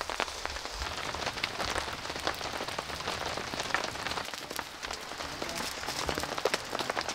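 Rain pattering on a camp tarp: a steady hiss dotted with many small, irregular drop taps.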